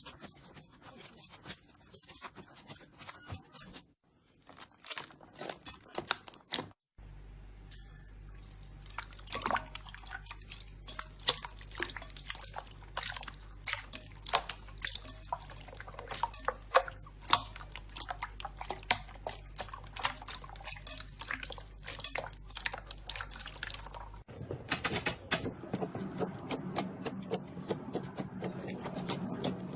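Slime squeezed and pressed by hand: a dense run of wet clicks, pops and squelches. The texture of the sound changes abruptly a few times.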